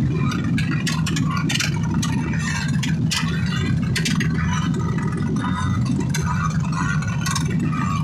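A vehicle engine running steadily with a low hum, with scattered sharp clicks and rattles over it.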